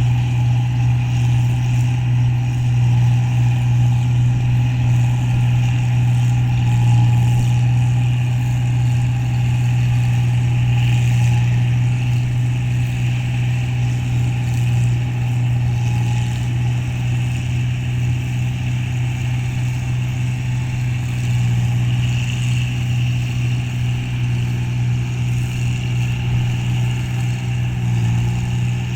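A rice combine harvester, a model 1545, running steadily while cutting paddy. Its engine drones at a constant low pitch throughout, with no change in speed.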